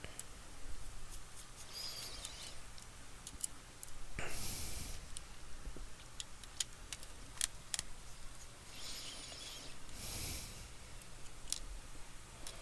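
Small clicks, taps and scraping of screwdriver and metal or plastic parts as a laptop is taken apart, with two short hissing bursts about four and ten seconds in.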